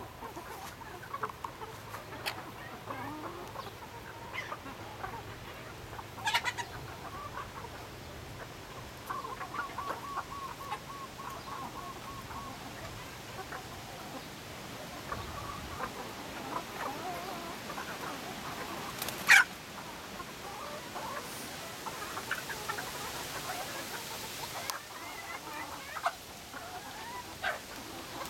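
Chickens clucking in scattered short calls, with a quick run of even clucks about nine seconds in. One loud sharp call stands out about two-thirds of the way through.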